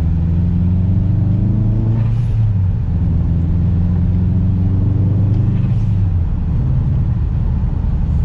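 Subaru WRX's turbocharged flat-four accelerating hard. The engine note climbs, breaks briefly about two seconds in as a gear is changed, climbs again and falls off about six seconds in. This is a pull on the freshly replaced clutch.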